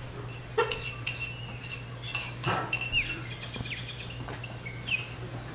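Birds chirping: a scatter of short high calls, a few sliding quickly in pitch, mixed with several sharp taps or clicks.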